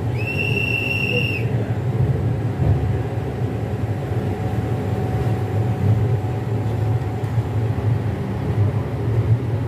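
LHB passenger coach rolling slowly, a steady low rumble heard from inside the coach. Near the start a single shrill, steady whistle-like tone sounds for about a second.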